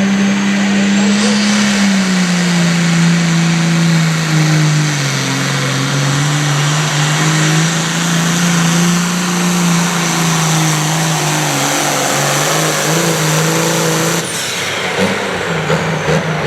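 A tractor-pull competitor's engine running hard at full throttle under load down the track. Its pitch sags over the first few seconds and then holds, and it dips briefly about fourteen seconds in before picking back up.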